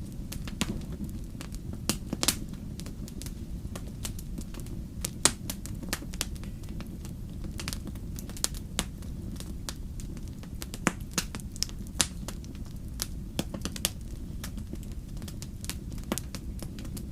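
Wood campfire crackling, with irregular sharp pops and snaps, the loudest about five seconds in, over a steady low rumble.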